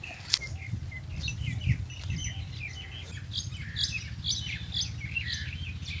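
Small birds chirping: many short, high chirps, often overlapping, with a low steady rumble underneath.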